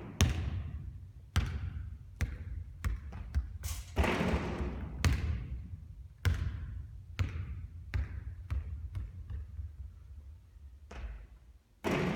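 Basketball bouncing on a hard court: a string of sharp thuds at uneven intervals, with a few longer rushing sounds between them.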